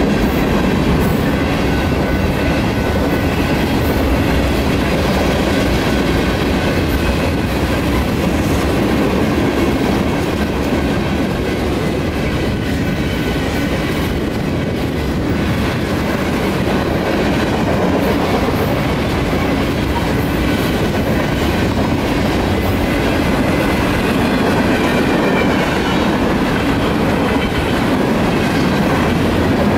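A manifest freight train's mixed freight cars rolling steadily past, with continuous wheel clatter on the rails. A crossing's electronic warning bell keeps ringing through it.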